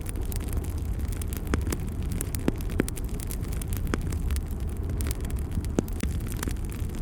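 Wood fire burning in a fireplace: a steady low rumble of flame, with scattered sharp crackles and pops from the burning wood. A few pops stand out, around two and a half seconds in and again near six seconds.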